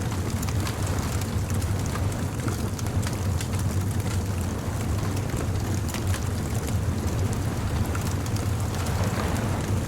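Bonfire crackling with many small irregular pops, over a steady low rumble of surf.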